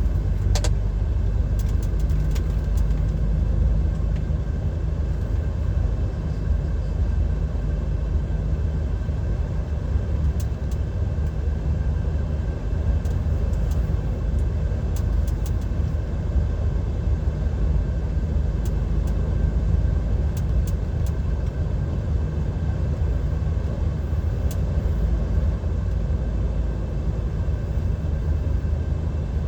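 Inside the cab of a DAF XF 530 lorry on the move: the steady low drone of its PACCAR MX-13 straight-six diesel mixed with tyre and road rumble. A few faint ticks and rattles sound now and then.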